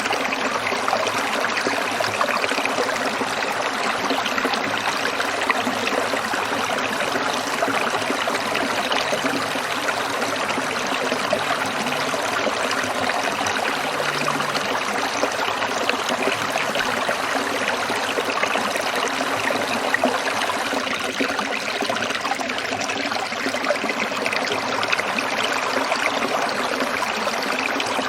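A small stream trickling and splashing over stones, a steady babble of water without pause.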